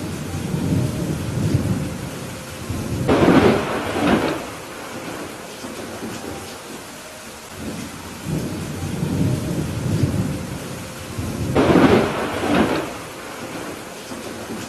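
Thunderstorm: steady rain falling with thunder rumbling twice, each rumble building to a loud crackling peak before fading back into the rain.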